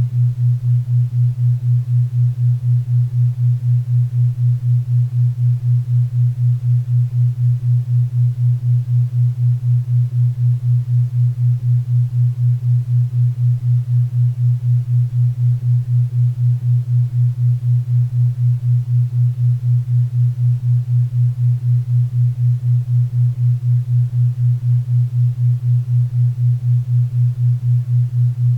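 A 4 Hz theta-wave beat: a low, pure tone that pulses evenly about four times a second, over a faint bed of pink and brown noise.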